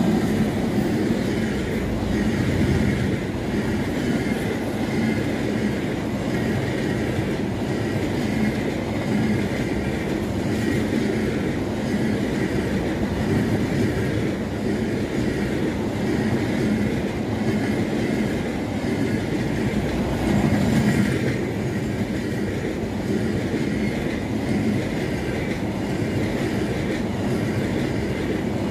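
Passenger express train coaches passing at speed through a station without stopping: a steady loud rush of steel wheels running and clattering on the rails, briefly louder about two-thirds of the way through.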